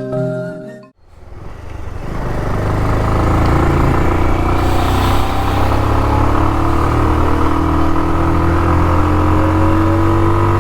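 Motorcycle engine running steadily while the bike climbs, its pitch rising slowly. It fades in about a second in, just as a short stretch of music ends.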